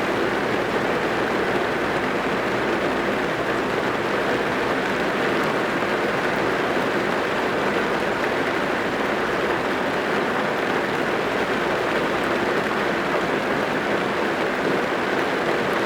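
Rain falling on a car's roof and windows, heard from inside the cabin as a steady, even patter.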